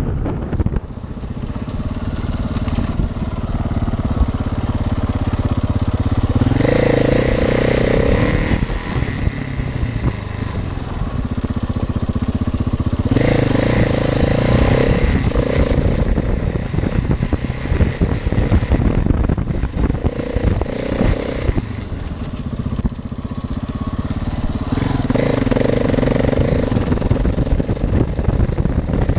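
Off-road rally motorcycle engine running under load on a dirt track, the revs surging up three times, about 6, 13 and 25 seconds in, between steadier stretches.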